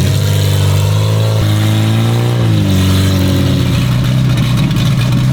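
Engine of a small, worn-out monster truck running after a restart, its pitch shifting up and down as the throttle is worked.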